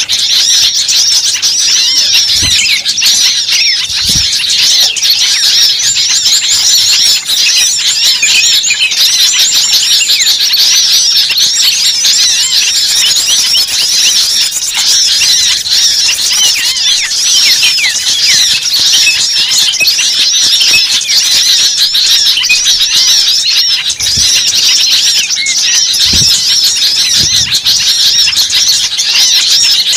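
Dense chorus of many small birds chirping, squeaking and chattering without pause, an agitated, alarm-like flock mix of the kind used as a lure recording to draw small birds in. There are a few faint low thumps underneath.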